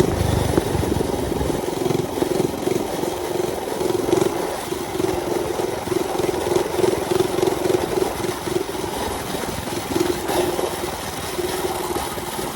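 Mini bike engine running at a steady speed while riding, a constant drone that holds one pitch with slight wavering.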